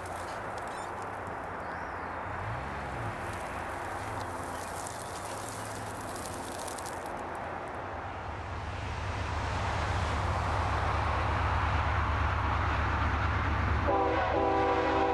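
Approaching BNSF diesel freight train: a steady low rumble that grows louder from about halfway through, with the locomotive's air horn starting to blow near the end.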